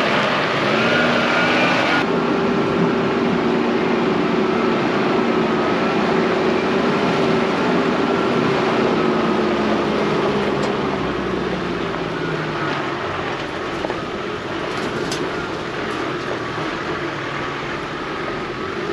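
A 4x4's engine running steadily under way on a dirt fire trail, with tyre and road noise; its pitch sinks slowly through the middle.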